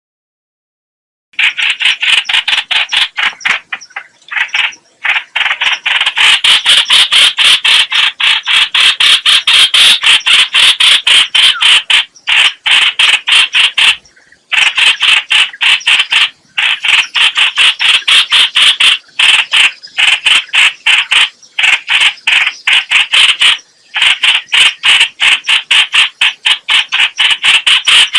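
Loud chattering call of the bird known in Vietnam as trao trảo (chao chảo, hoành hoạch): a fast run of short, harsh, evenly repeated notes, many a second. It starts after about a second of silence and keeps going with only brief pauses.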